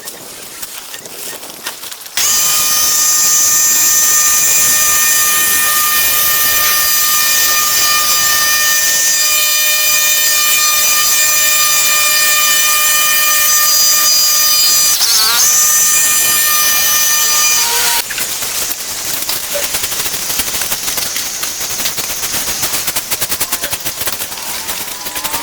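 Small engine of a handheld power tool, such as a chainsaw or brush cutter, running at high steady speed as a loud whine. It starts about two seconds in, dips briefly near the end of its run, then gives way to a rougher, less even sound for the last several seconds.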